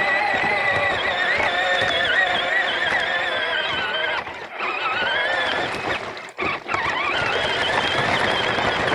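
Small ride-on tractor's drive motor whining high and wavering in pitch as it works, cutting out briefly twice near the middle.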